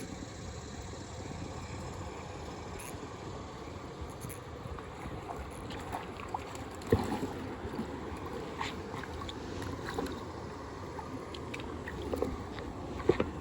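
Steady rush of flowing river water, with scattered small splashes and clicks and a couple of sharp knocks in the second half.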